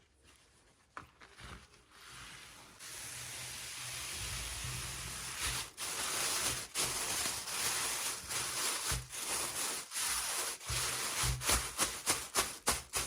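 A rough, steady rubbing or scraping sound starts about three seconds in and continues, breaking into quick short strokes near the end.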